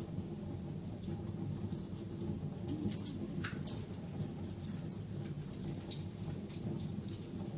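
Wood fire burning with dense, irregular crackling and popping over a steady low rumble of the flames, with a few louder pops a few seconds in.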